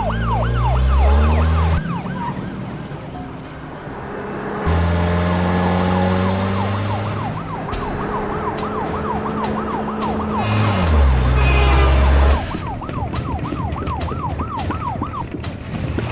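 Police car siren yelping in fast up-and-down sweeps, about four a second, in several stretches, over background music with sustained bass notes.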